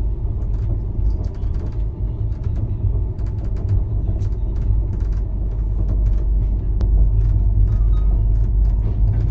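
Express train coach running along the track: a steady low rumble with many scattered clicks, knocks and creaks, growing a little louder about two-thirds of the way through.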